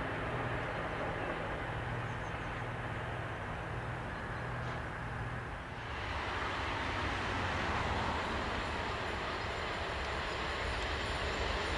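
DB Class 152 electric locomotive approaching with a freight train: steady running noise of the locomotive and wagons on the track, with more high-pitched rail noise coming in about halfway through and growing louder toward the end.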